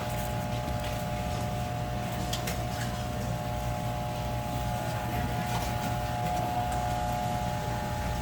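Steady machine hum with a few faint light clicks.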